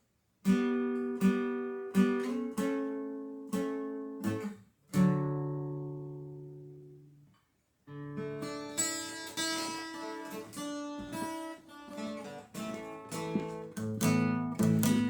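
Acoustic guitar being played: plucked notes and two-note shapes ring out and fade one after another. The playing stops for about half a second just past the middle, then comes back busier, with strummed chords.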